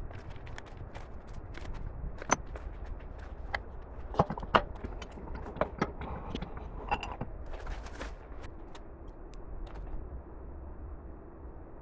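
Irregular clicks and knocks of tools or parts being handled, the sharpest about two seconds in and a quick cluster about four seconds in, over a low steady rumble.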